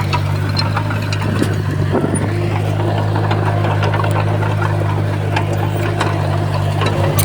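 Komatsu D51PX bulldozer's diesel engine running steadily, with scattered clicks and clanks over the engine hum.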